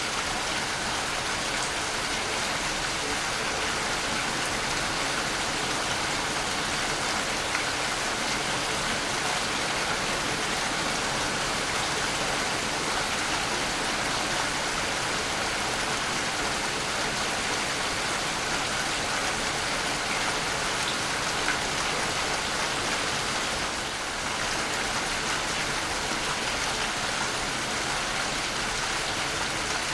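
Waterfall: falling water rushing and splashing in a constant, even sound that does not let up.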